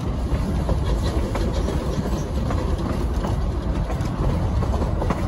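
A narrow-gauge passenger train rolling along the rails, heard from one of its cars: a steady low rumble with scattered clicks from the wheels and track.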